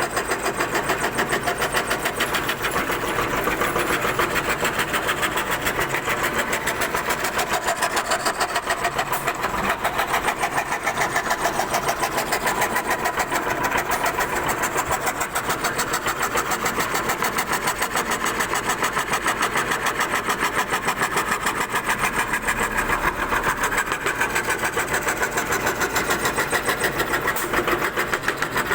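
CNC wood-carving router running steadily, its spindle bit cutting into wood with a fast, even pulsing hum.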